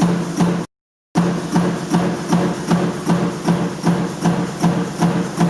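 Power stamping press running continuously, its strokes striking about three to four times a second in an even rhythm over a low hum. The sound cuts out completely for about half a second near the start.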